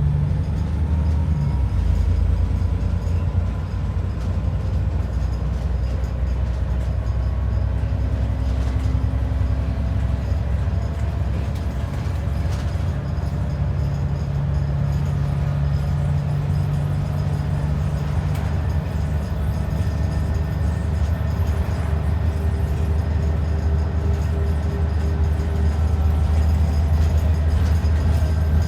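ADL Enviro 400 double-decker bus running under way, heard from inside the passenger cabin: a steady low engine and drivetrain rumble with faint humming tones that drift slowly in pitch.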